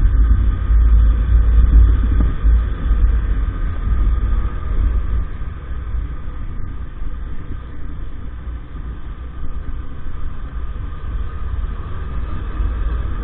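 EAYS Pro 50cc motorcycle engine running steadily while riding, under a heavy low rumble of wind on the microphone that is strongest in the first few seconds.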